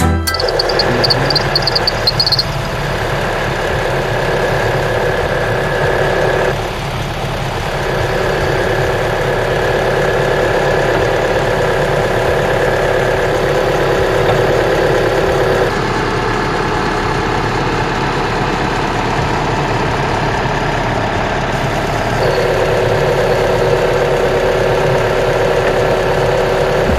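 Mitsubishi Outlander engine idling steadily, its drive belt running without squealing after a belt-conditioner spray. The steady tone shifts a few times.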